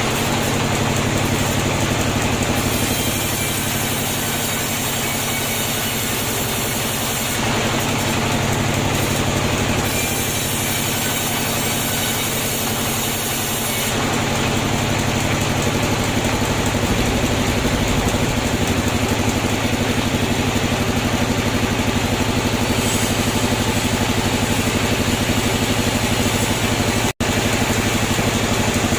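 Sawmill machinery running with a steady engine-like hum. The tone shifts a few times, and the sound cuts out for an instant near the end.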